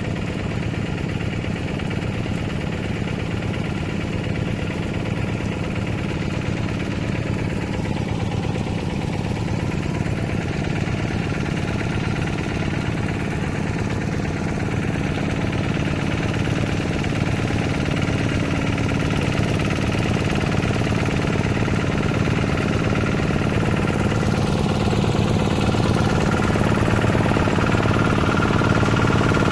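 Hand tractor's engine running steadily, growing a little louder near the end.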